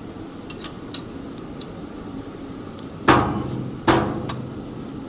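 Two sharp metal clanks about a second apart, each ringing briefly, from metal parts being struck during assembly of a band saw cutting machine, over a low steady hum.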